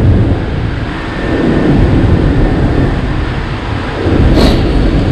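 Light rail train running, heard from inside the passenger car: a steady rumble and rush of noise that swells about four seconds in, with a brief hiss.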